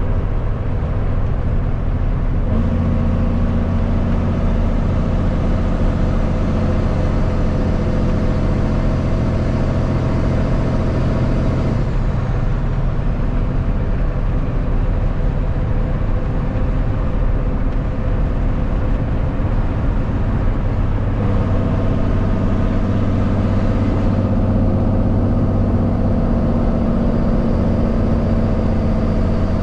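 Kenworth W900 semi truck's diesel engine running steadily on the road, a continuous drone over road noise whose pitch steps abruptly a few times.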